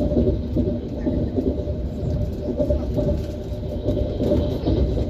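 ES1P Lastochka electric train running along the track, its wheels giving a steady rumble with uneven knocking from the rails.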